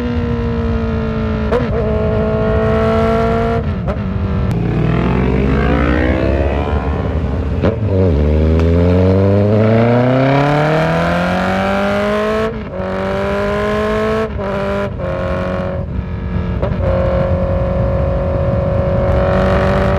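Honda CB650F inline-four engine under way, accelerating hard through the gears. Revs climb steeply twice, with a sharp drop at an upshift about eight seconds in, then the engine shifts again and settles to a steadier cruise with brief breaks.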